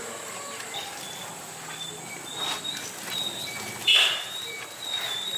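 Small birds chirping in short repeated high notes, with one sharp knock about four seconds in.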